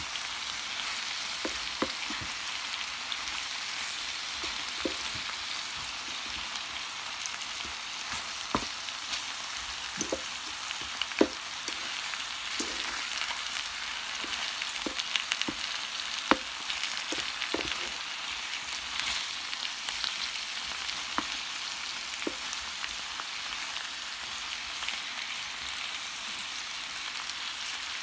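Chicken and pork pieces sizzling in a frying pan with a little soy sauce, a steady hiss. They are stirred and turned with a wooden spoon and a metal fork, which give many scattered clicks and knocks against the pan.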